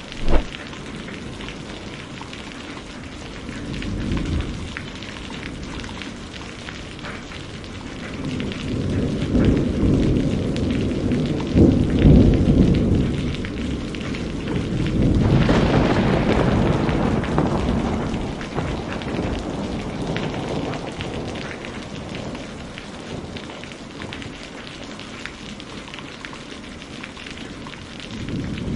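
Steady rain falling with rolling thunder. A sharp snap comes just at the start and a low rumble about four seconds in. A long rumble swells from about eight to fourteen seconds, then a sharper thunderclap about fifteen seconds in rolls away over the next few seconds.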